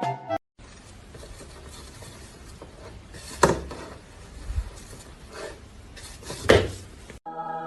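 Low room noise with a few sharp knocks or clatters, the loudest two about three and a half and six and a half seconds in. Music cuts off half a second in, and a held musical tone comes in just before the end.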